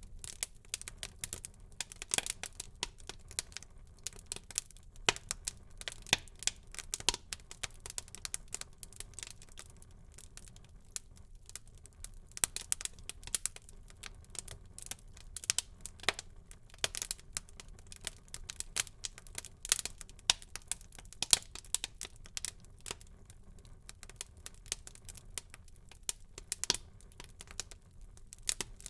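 Wood fire burning in a fireplace, crackling with irregular sharp pops, several a second, some much louder than the rest.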